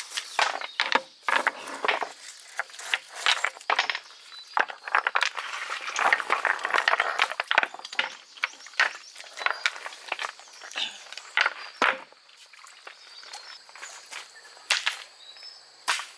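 Irregular sharp knocks and clicks with rustling, as stones and wood are handled to wedge a post firm; denser rustling in the middle, sparser and quieter in the last few seconds.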